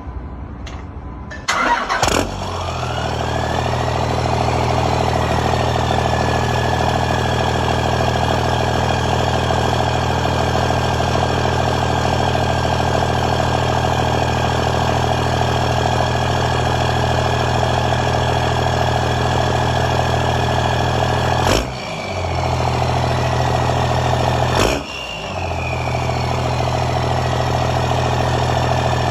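Dodge Ram's 5.7 Hemi V8 cranks and fires almost at once, about two seconds in, then settles into a steady idle. Twice near the end the running briefly breaks off and picks up again.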